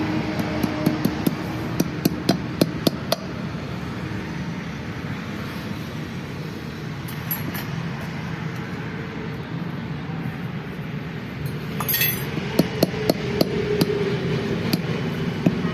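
Hammer striking metal in two quick runs of blows, about eight sharp clinking strikes in the first three seconds, then a pause, a brief scrape, and another eight or so near the end.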